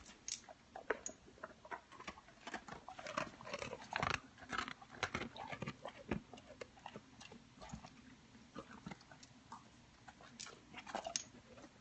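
A dog going after a dropped treat, with irregular crunching, clicking and smacking sounds that are busiest in the first half.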